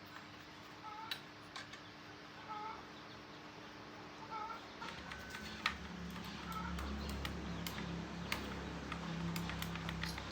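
A bird calling, a short two-note call repeated about every second and a half, over scattered light clicks and taps; a low steady hum comes in about halfway through.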